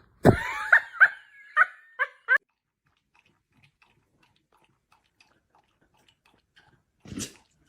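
A dog giving a quick string of about six short, high-pitched cries in the first two and a half seconds, then falling quiet. There is a brief rustle near the end.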